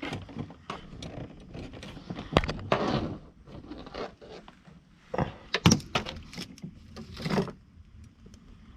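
Wire rigging cable and its metal swage fittings being handled: irregular clinks, rattles and scrapes, with the loudest knocks a little over two seconds in, around five to six seconds, and near seven seconds.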